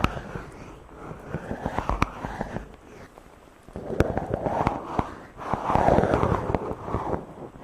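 Fingers rubbing and stroking directly on a microphone, giving close, crackly scratching and brushing. It dies down briefly about three seconds in, then swells to its loudest in the second half.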